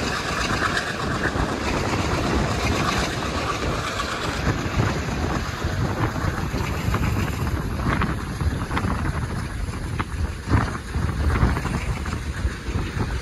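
Passenger train running, heard from on board: a steady rumble of wheels on the track mixed with rushing wind on the microphone, with a few sharp knocks in the last few seconds.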